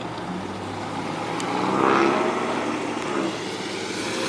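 A car driving past, its engine and tyre noise swelling to a peak about halfway through and then fading.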